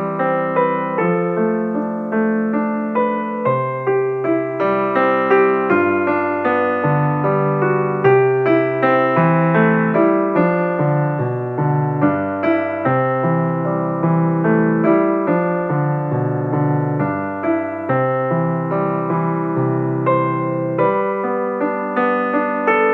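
Background piano music: a steady flow of struck notes over a changing bass line.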